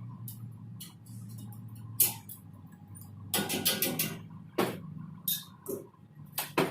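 A series of sharp knocks and clatters over a steady low hum: one about two seconds in, a quick flurry of them a little later, then several single knocks spaced about half a second to a second apart.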